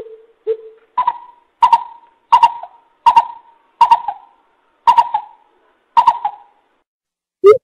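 Coucal (bubut) calling: a spaced series of hoots. Two low notes come first, then higher hoots with a sharp start, each about 0.7 s apart. A quicker run of low hoots begins at the very end.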